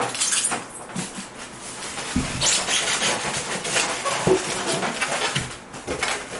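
A boxed CRT monitor being pulled out of its cardboard box: foam packing and cardboard scrape, rustle and squeak, with knocks as it shifts.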